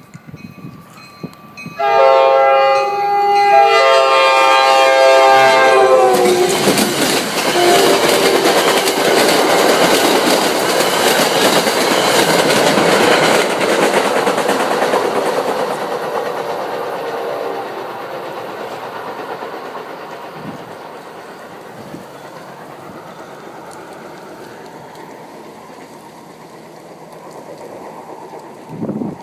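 Locomotive horn of MBTA #1068, an EMD F40PH-2C, sounding one long multi-tone chord whose pitch drops as it passes, an unusual-sounding horn. Then the commuter train goes by loudly with wheels clacking over the rail joints, and the noise fades slowly as it moves away.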